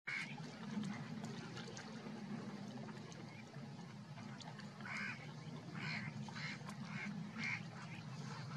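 Birds calling: short, harsh calls, one at the start and a quick run of about five in the last few seconds, over a steady low hum.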